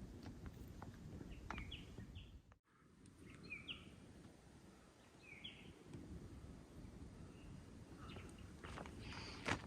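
Faint outdoor ambience: a low wind rumble with a few short bird chirps scattered through it and a click near the end.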